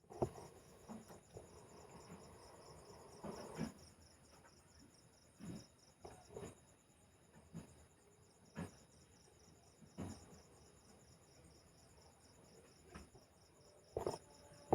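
Crickets chirping steadily in the background, a continuous high pulsing trill, with a few soft knocks and clicks now and then, the loudest near the start and near the end.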